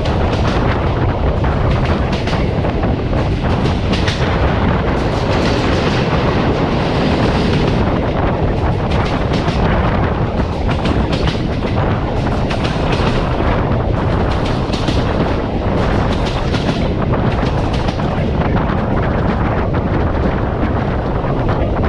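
Passenger train running at speed, heard from a carriage window: a steady rumble and rush of air, with the wheels clicking and knocking over rail joints at irregular intervals.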